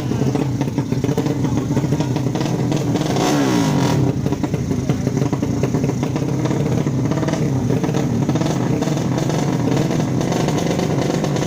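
Loud 155 cc drag-racing motorcycle engines running and revving, with a brief falling pitch about three seconds in.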